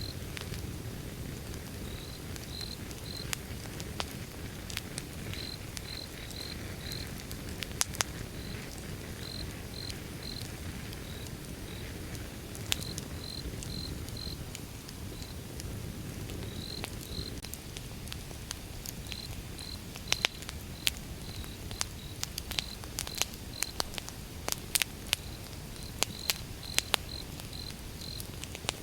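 Wood fire burning with a low steady rumble and sharp crackles and pops, which come more often in the second half. A cricket chirps in short repeated bursts of two or three throughout.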